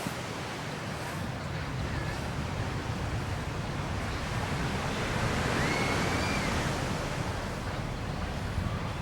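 Sea surf washing onto the shore, with wind rumbling on the microphone; the wash swells about halfway through, then eases.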